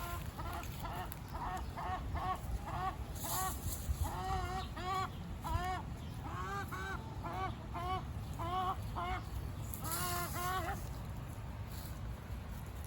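Chicken calling in a long run of short, repeated squawks, about two a second, stopping about two seconds before the end, over a steady low rumble.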